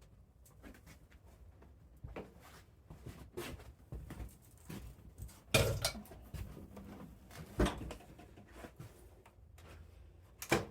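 Scattered light clicks, knocks and rustles of hands handling things while cleaning up. A louder knock comes just past halfway and another about three-quarters through.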